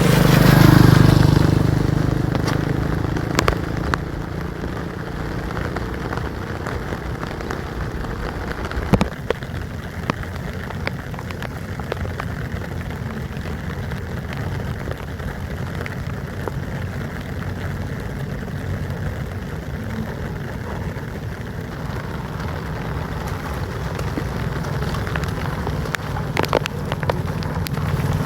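Steady rain with scattered drips. A vehicle passes in the first couple of seconds, and another approaches near the end.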